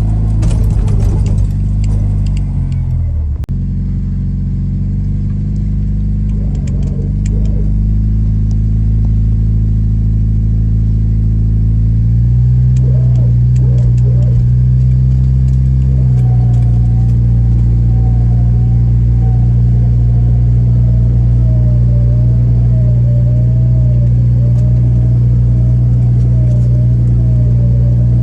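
Jeep engine running, with a shift in revs early on; about 12 s in it revs up and is held at higher revs, with a wavering whine riding above it from about 16 s, as the Jeep works to winch a tractor out of a ditch.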